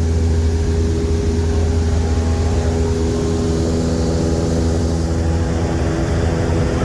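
Small propeller airplane's engine and propeller droning steadily in flight, a loud, even low hum with a constant pitch.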